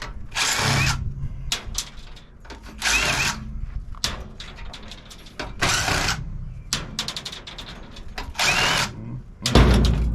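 Power drill running in about five short bursts of roughly half a second each, with small metallic clicks and handling noise between them, typical of backing out fasteners while stripping a golf cart charger for scrap.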